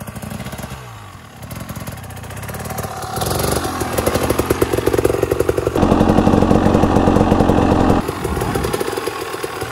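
Enduro dirt bike engine pulling away in first gear as a beginner feeds out the clutch and opens the throttle. The revs and loudness build over several seconds, stay loudest for a couple of seconds, then drop off sharply near the end as the throttle is let off.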